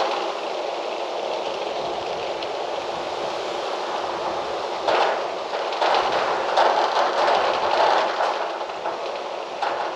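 Gusty wind rushing through trees, a steady rush that swells in stronger gusts about halfway through and again for a couple of seconds after.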